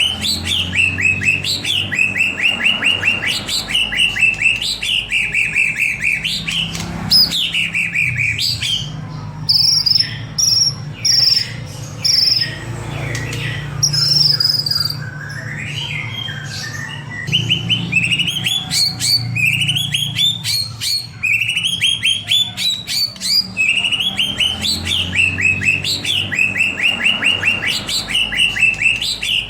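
White-rumped shama (murai batu) singing in full, fast song: phrases of rapid rattling notes repeated every second or two. Around the middle these change to a run of high, clear whistles, then the rattling phrases return. A low steady hum runs underneath.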